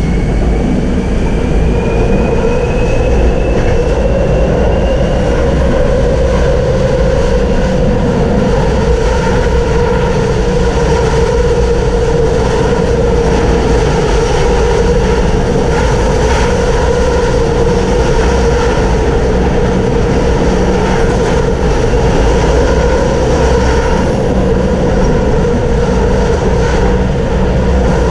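Tram running along the track: a steady rumble and rolling noise from the wheels on the rails. A thin whine rises slowly in pitch over the first five seconds or so as the tram picks up speed.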